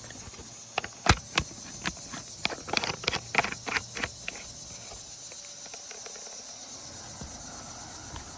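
A quick run of sharp, irregular taps and knocks lasting about three seconds, over a steady high chirring of insects that carries on once the taps stop.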